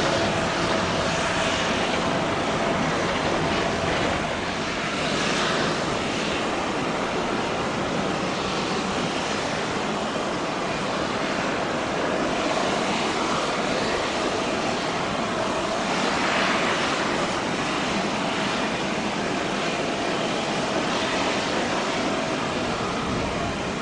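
Jet engines of an Airbus A350-941 airliner on the runway, making a steady rush of noise with a faint hum through it.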